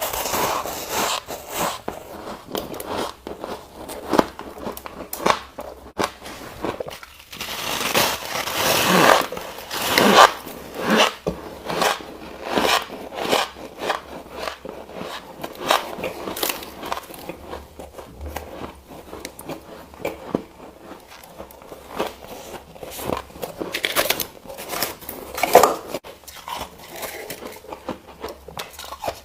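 Ice being bitten and chewed: a continuing run of sharp, crunchy cracks with some scraping. It is busiest and loudest about a third of the way through, with another loud crunch near the end.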